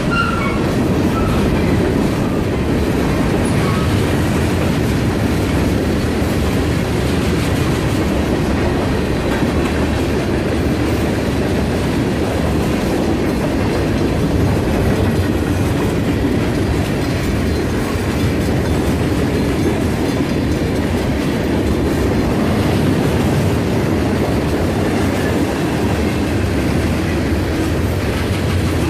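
Freight train cars rolling steadily past a grade crossing, with wheels clacking over the rail joints.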